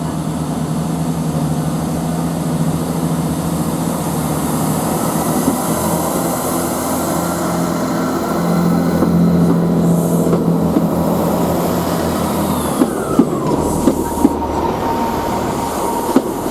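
A train running on the main line at a station: steady rumbling running noise with a low motor hum. About 13 s in a whine falls in pitch, followed by a handful of sharp wheel clicks over the rail joints.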